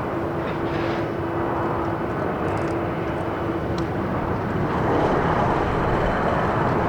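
Jet airliner on approach to land, a continuous engine rumble with a steady whine in the first half; the engine sound swells louder about two-thirds of the way in as the aircraft nears.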